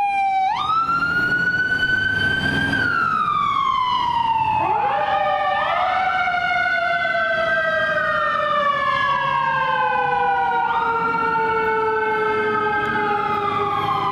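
Electronic wail sirens of a Los Angeles Fire Department emergency vehicle on a response. One slow wail falls in pitch throughout, with a jump up about half a second in. A second siren tone sweeps in about four and a half seconds in, and the two wail together, rising and falling against each other.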